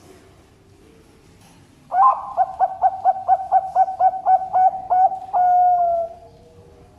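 Zebra dove (Bangkok perkutut) cooing: a quick run of about a dozen short notes, about four a second, then one long note that sinks slightly at the end.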